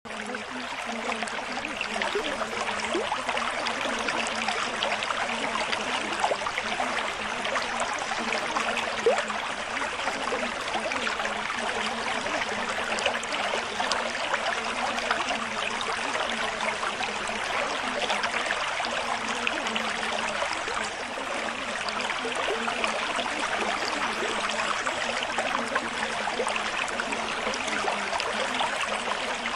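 Water trickling steadily, a dense, unbroken crackle of tiny splashes.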